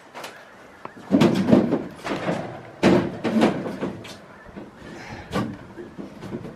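An irregular run of knocks and thumps from work on a caravan's frame and roof: several close together in the first half and a single one near the end.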